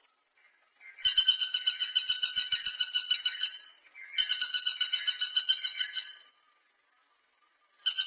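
Woodpecker calling in rapid rattles of about eight notes a second: two rattles of about two and a half seconds each, and a third starting near the end.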